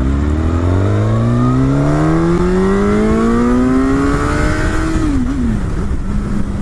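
Motorcycle engine pulling hard under full acceleration, its pitch climbing steadily for about five seconds. Near the end it drops with a brief wobble as the throttle comes off or it shifts up, then runs at a steady lower pitch.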